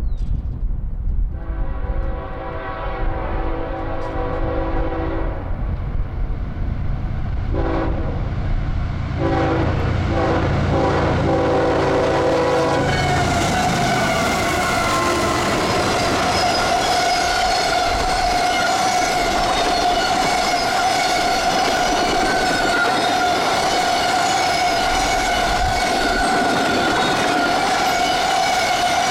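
Freight locomotive's multi-chime air horn sounding a long blast, a short one and a final long blast for a grade crossing, over the rumble of the diesel engines. After the horn, loaded tank cars roll past close by with a steady rolling noise, wheel clickety-clack and a steady high tone.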